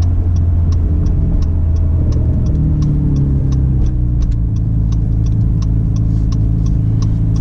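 Acura NSX's V6 engine running steadily under way, its pitch lifting briefly a few seconds in, with faint regular ticks about three times a second.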